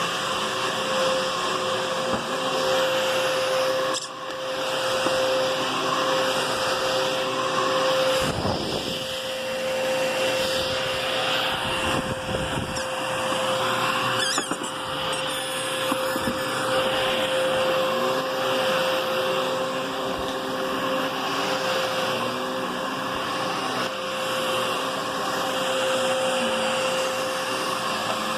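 Hoover Whisper bagless cyclonic upright vacuum cleaner running steadily, with a constant motor whine over the rush of airflow and a brief dip in level about four seconds in.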